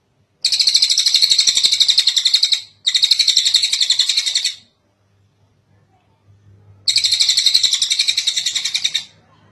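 Tengek cililin songbird singing three long, rapid trills of about two seconds each, the third after a short pause.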